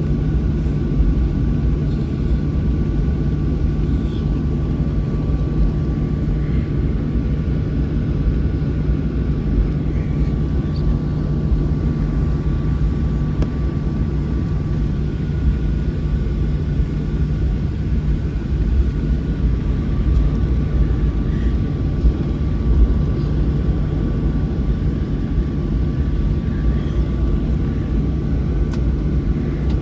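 Boeing 737 jet engines at low ground-idle power heard inside the passenger cabin: a steady deep rumble with a constant hum and a thin, steady whine over it.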